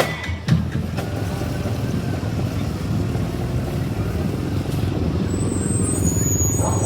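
A parade vehicle's engine running steadily: a low, evenly pulsing rumble that holds its pitch. A few drum hits sound at the very start.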